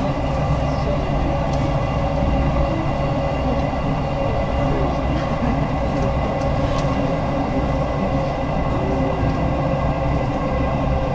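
JR West local electric train running, heard from inside the carriage: a steady rumble and hiss with a few constant held tones.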